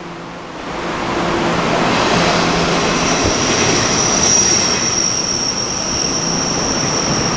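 A train pulling into an underground station platform, its running noise swelling over the first two seconds, then a high, steady wheel or brake squeal from about three seconds in.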